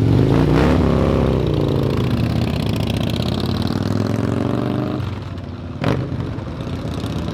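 Harley-Davidson V-twin motorcycle engine running, with a rev rising and falling about a second in, then settling back. A single sharp knock sounds near the end.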